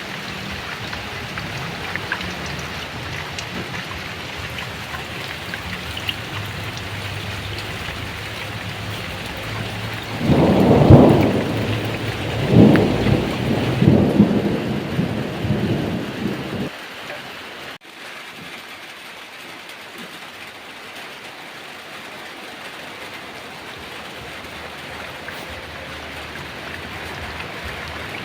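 Heavy rain falling steadily, with a long roll of thunder about ten seconds in that swells in several peaks over some six seconds. The thunder ends abruptly, and the rain goes on a little quieter after it.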